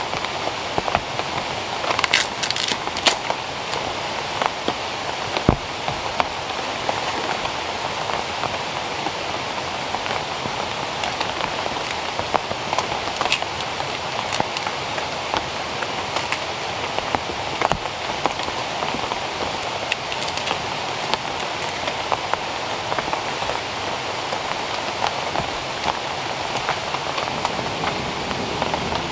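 Steady hiss of falling water with scattered sharp ticks of drops striking a surface.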